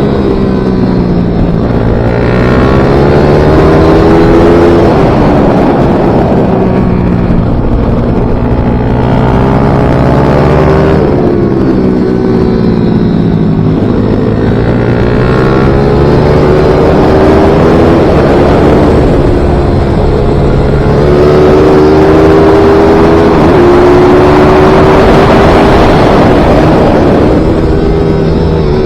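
Small racing pit bike / MiniGP motorcycle engine at full throttle on track, its pitch rising through the revs and dropping back again and again as it accelerates, shifts and slows for corners.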